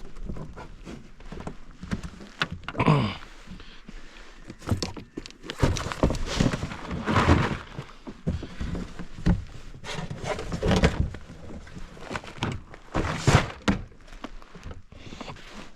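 Irregular thumps and knocks in a kayak as a freshly caught trout is handled and laid on a measuring mat.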